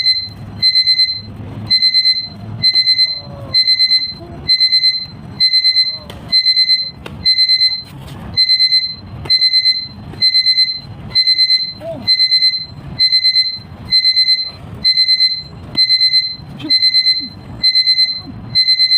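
Electronic alarm beeping: short bursts of rapid high beeps repeat steadily, a little under two bursts a second.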